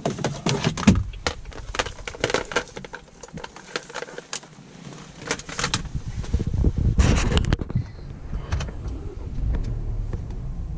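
Clicks, rattles and rustling as the DiCE diagnostic interface is unplugged and the key is handled, then about seven seconds in the Volvo V60 T6's 2.0-litre four-cylinder engine starts and settles into a steady low idle.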